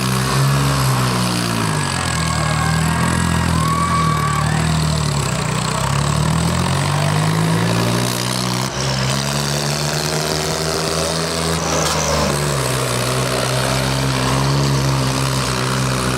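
Swaraj 855 tractor's diesel engine running under changing revs during a stunt. Its pitch drops and climbs several times, then settles to a steady run near the end.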